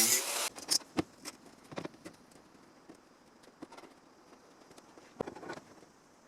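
A loud, noisy tool sound cuts off about half a second in, followed by scattered light clicks and taps, like tools and sheet-metal parts being handled.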